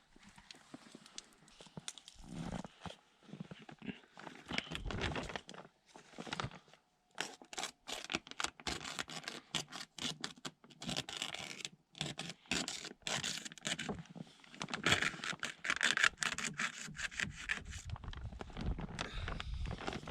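Irregular rubbing and scraping, broken by many sharp clicks and knocks, busiest and loudest in the middle stretch.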